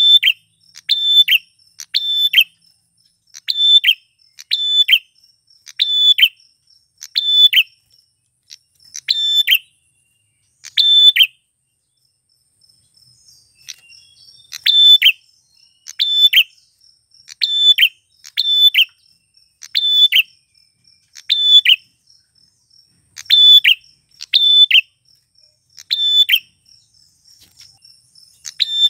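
Male prenjak klawu (prinia) calling: a loud, sharp, falling chirp repeated about once a second in a long series, with a pause of about three seconds midway. A faint steady high insect-like tone runs beneath.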